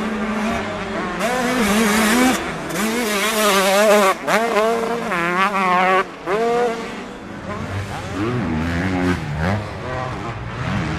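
Several motocross bikes on track, their engines revving up and down through the gears. The revving is busiest and loudest in the first half, dips sharply just past the middle, and then carries on lower and quieter.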